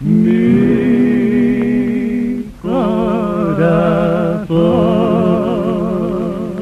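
A male singer's voice holding the final long notes of a vals with wide vibrato, in three sustained phrases, the last one fading away. It comes from an old 78 rpm record.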